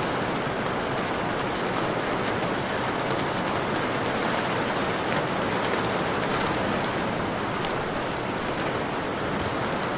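Steady rain falling and hitting a window, a dense even hiss with many small drop ticks through it.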